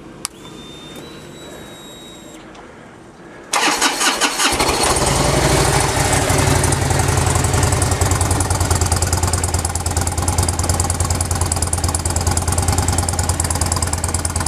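A click and a faint high whine, then about three and a half seconds in, the 2003 Harley-Davidson Road King's Twin Cam 88 V-twin cranks on the starter and fires, settling into a steady idle through its stock slip-on mufflers.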